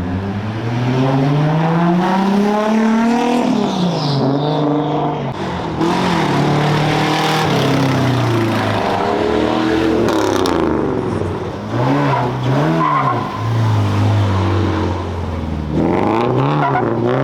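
A high-performance car engine accelerating hard. Its pitch climbs for about three seconds, then drops at a gear change, followed by a series of rises and falls as it is revved and pulls through gears, and another rev near the end.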